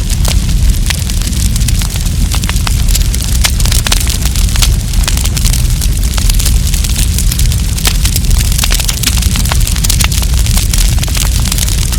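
Wood campfire crackling and popping continuously, with many sharp crackles over a steady low rumble.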